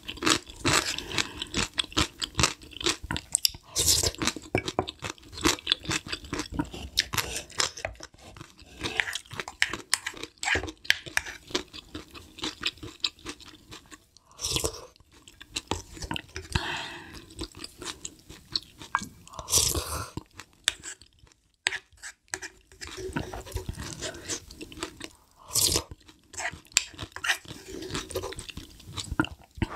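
Close-miked chewing, with lots of small wet mouth clicks, as spoonfuls of spicy beef short-rib soup and rice are eaten. A handful of louder bursts stand out, and the spoon scrapes the stone pot.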